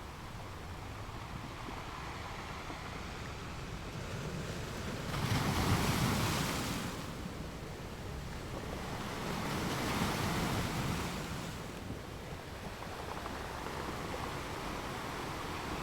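Ocean waves washing on the shore, with two louder surges of surf about five and ten seconds in.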